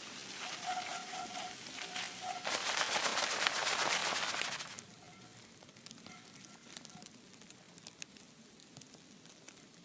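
Sizzling and crackling on a hot-tent wood stove, with a loud surge of sizzling hiss from about two and a half seconds in that lasts about two seconds, then settles back to quieter crackles.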